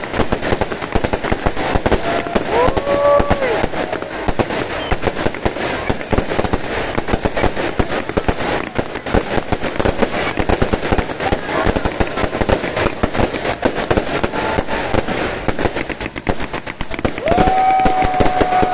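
Many fireworks and firecrackers going off at once: a dense, continuous crackle of rapid pops and bangs. A short held tone rises over it about two and a half seconds in, and another starts near the end.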